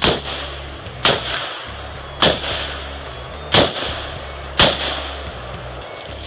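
Five gunshots fired at a steady pace, about a second apart, each followed by a short echo.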